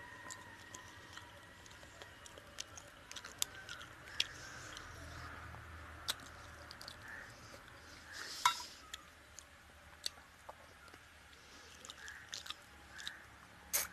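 Close-up chewing and wet mouth sounds of a man eating rice and fish curry by hand, with scattered sharp smacks and clicks and one louder smack about eight and a half seconds in.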